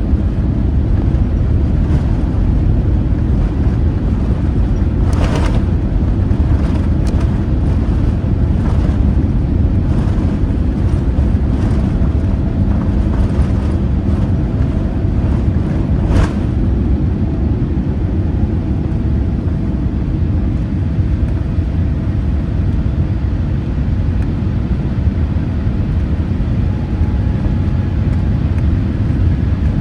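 Steady loud rumble of jet airliner cabin noise aboard a Boeing 787-8, with a few short knocks or rattles, the sharpest about 16 seconds in.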